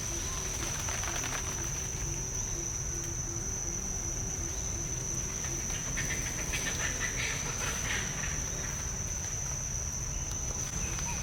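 Insects calling in a steady, unbroken high-pitched drone over a low rumble of outdoor background noise, with a brief light crackling about six seconds in.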